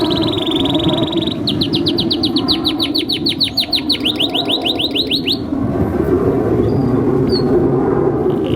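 Canary singing: a fast trill, then a rapid run of down-sweeping notes at about seven or eight a second that breaks off about halfway through, with the song starting again near the end. A steady low hiss lies underneath.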